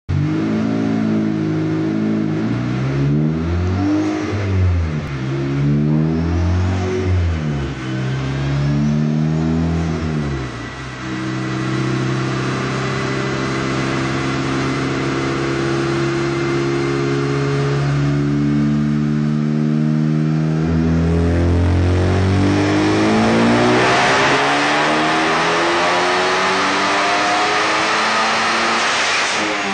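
Ford Focus ST's built 2.3-litre stroker turbocharged four-cylinder running on a chassis dyno: revved up and down in several blips, then held at a steady speed, then a long rising full-throttle dyno pull climbing in pitch through the last several seconds.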